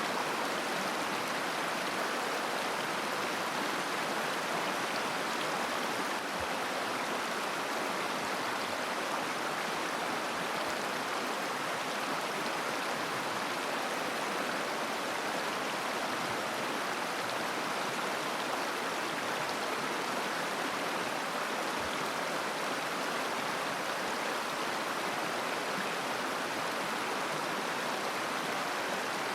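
Mountain river flowing over stones, a steady babbling rush of water.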